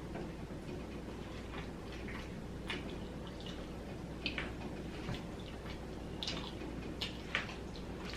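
Close-up chewing and wet mouth smacks from eating fries, in scattered short clicks over a steady low hum.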